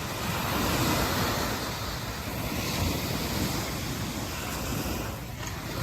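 Ocean surf washing in, with wind rumbling on the microphone.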